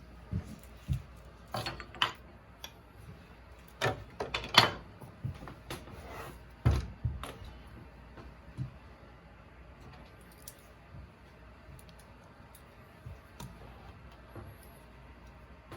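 Irregular clicks, knocks and light clinks of hard objects being handled, such as tools, in a flurry through the first half, then only a few faint ticks.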